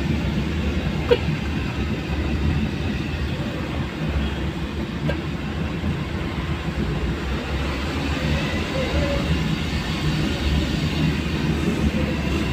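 Steady low rumble of a vehicle travelling along a road, with a short click about a second in.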